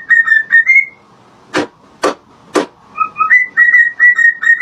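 A pet parrot whistling a short tune of quick notes twice over, with three sharp clicks in the gap between the two phrases.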